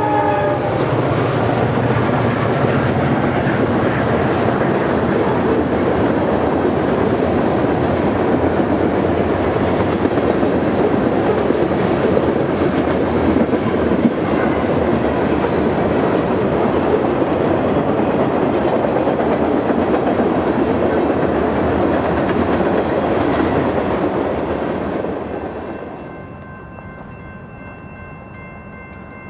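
Freight train passing close by: a loud, steady rumble and clatter of wheels on rail, just after a locomotive horn cuts off at the start. About 25 seconds in it fades quickly as the train goes by, leaving a quieter steady hum.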